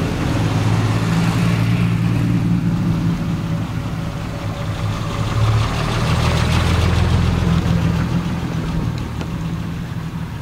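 Triumph TR6 2.5-litre straight-six engines running at low speed as the cars drive past one after another: a steady low exhaust note, loudest about halfway through as a second car passes close.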